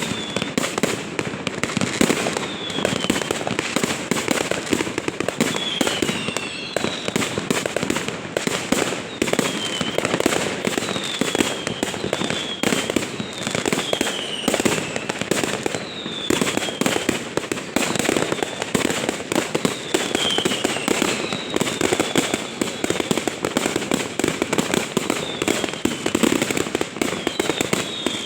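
Fireworks going off without a break: dense crackling and popping, with a short whistle falling in pitch every second or two.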